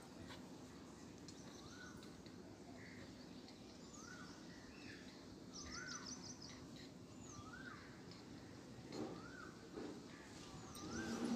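Birds calling in the background: a short rising-and-falling whistle repeated every second or so, with higher, quicker chirps, one rapid run of them about halfway through. A low voice-like sound comes up briefly near the end.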